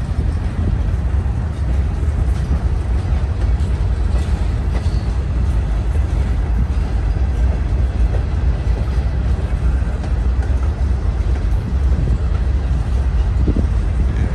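Freight train of boxcars, covered hoppers and tank cars rolling past: a steady, continuous rumble of steel wheels on rail.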